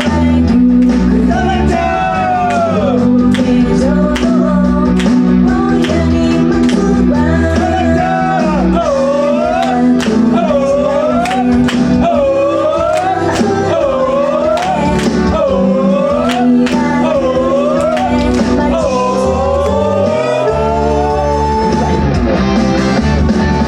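A female idol singing a pop song live over a pop accompaniment with a steady beat; her sung line rises and falls in repeated swooping phrases.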